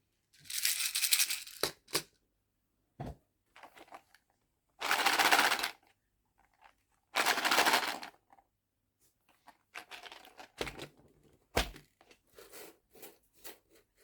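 Small nail-art charms and plastic storage boxes being handled. Three loud, hissy rattling bursts of about a second each are broken up by a few sharp knocks and, near the end, a run of small clicks.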